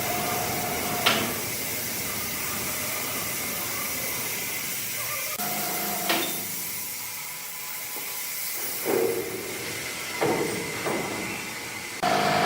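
Steady hissing noise of factory machinery, broken by a sharp knock about a second in, another about six seconds in, and a few short clunks near the end.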